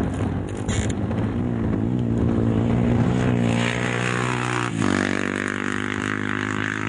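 Off-road racing engine accelerating, its note climbing, then changing abruptly about two-thirds of the way through to a steady held note.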